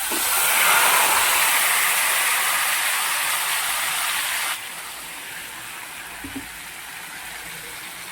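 Masala dropped into hot oil in a pan, sizzling loudly at first. About four and a half seconds in it drops abruptly to a quieter, steady frying sizzle.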